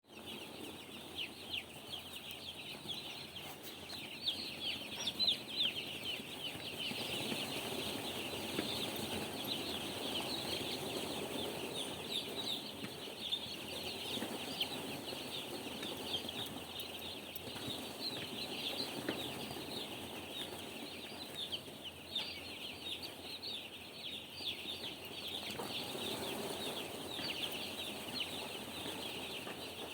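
A large flock of day-old broiler chicks peeping continuously, a dense mass of short, high, falling chirps over a steady low background noise.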